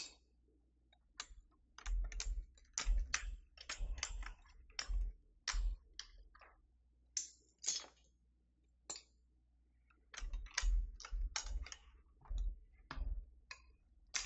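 Keys being pressed on a Keychron V6 Max mechanical keyboard: irregular clicks in bursts of several strokes with short pauses between.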